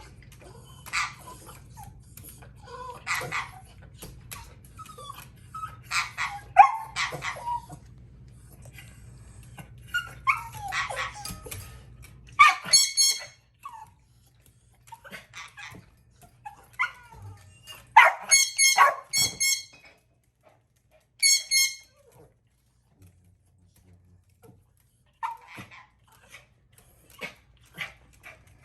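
Dog yipping and whimpering in short scattered bursts, with several high, squeaky cries. A faint low hum runs underneath and stops about 12 seconds in.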